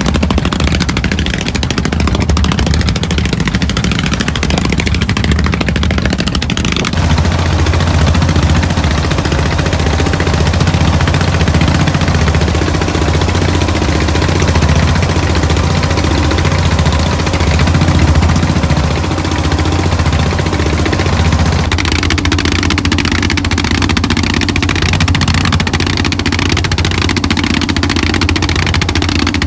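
Boat engine running steadily under way, a low engine note with a steady hiss over it. The sound changes abruptly about seven seconds in, and again about twenty-two seconds in.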